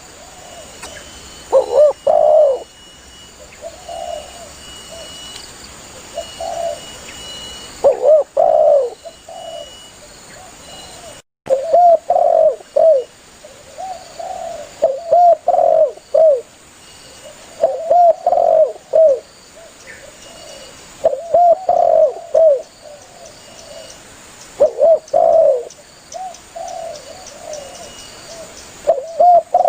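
Spotted dove (tekukur) cooing, repeating its phrase of several low coos every two to four seconds. A faint steady high whine runs underneath, and the sound cuts out for an instant a little over a third of the way through.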